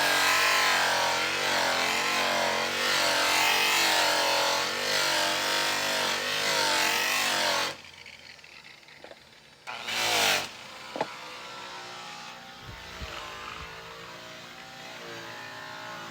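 Electric rotary polisher running against a metal wheel, its motor pitch wavering up and down as the load changes, then cutting off suddenly about halfway through. It gives a brief, loud burst that falls in pitch a couple of seconds later, and a fainter motor sound follows.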